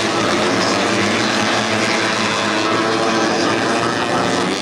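Tuned 150cc four-stroke underbone racing motorcycle engines running at high revs, a loud steady engine sound.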